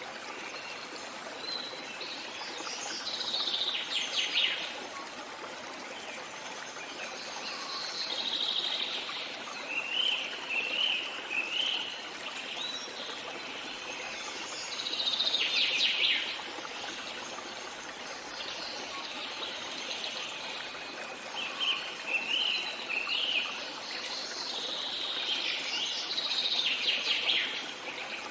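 Songbirds singing short, repeated phrases of chirps and trills every few seconds over the steady rush of a running stream.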